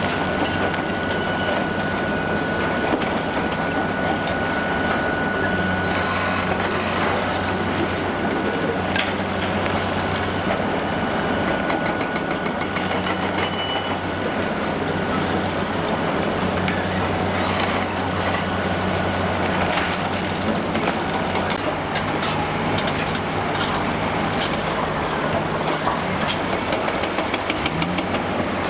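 Heavy demolition excavator's diesel engine running steadily under load, with a dense metallic rattling and crunching clatter building up in the last few seconds.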